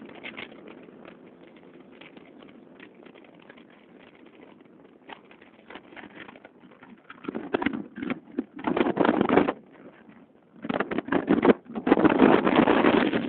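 Motorcycle engines running, with two loud revving bursts of a couple of seconds each in the second half.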